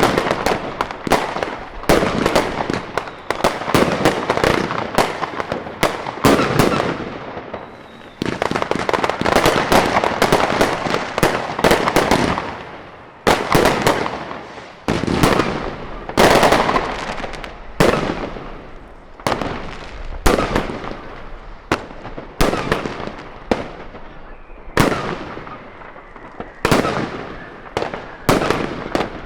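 Fireworks going off: a dense run of bangs with crackling tails, thinning near the end into single bangs about a second apart.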